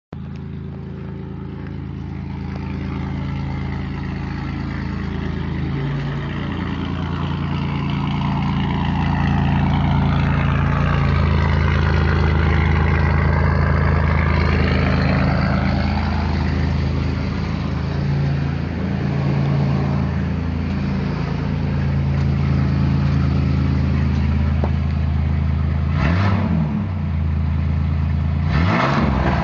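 Straight-piped 4.3-litre V6 of a 1999 Chevrolet S-10 ZR2 running loud through JBA shorty headers, with a 2.5-inch pipe in place of the muffler. The engine note grows louder over the first ten seconds and holds, then the throttle is blipped twice near the end.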